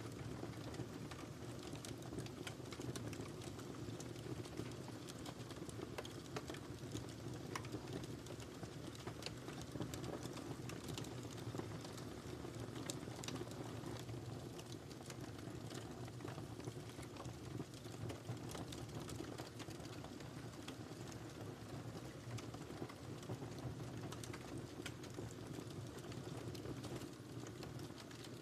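Wood fire crackling in a fireplace: frequent small irregular pops and snaps over a steady low rumble of the flames.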